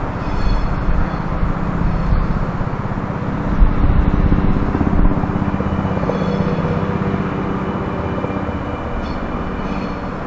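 Sydney Trains double-deck electric train rolling across the station's tracks and points: a steady rumble of wheels on rail with a low hum and faint high tones above it.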